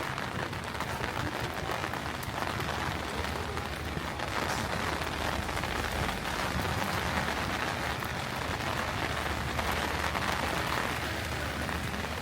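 Heavy rain falling steadily on the city street, a dense even hiss, with a low steady rumble underneath.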